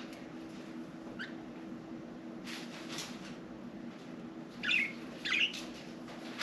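Budgerigars chirping: a few faint short chirps, then two louder warbling chirps about two thirds of the way through, over a steady low hum.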